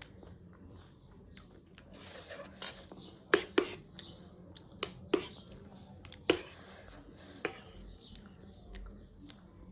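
Close-up eating sounds of crisp street snacks: about six sharp clicks and crunches in the middle, among quieter rubbing and chewing noises.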